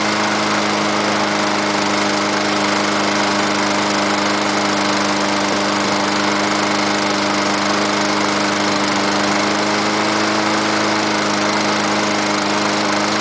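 Honda GCV160 single-cylinder engine on a 2006 MTD Gold push mower running steadily on its cold start with the choke on, moments after firing up.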